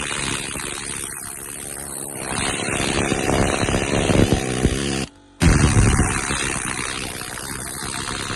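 Needle gun hammering against the truck's steel chassis, a loud, steady buzzing rattle, knocking off rust and loose paint. It stops briefly about five seconds in, then starts again.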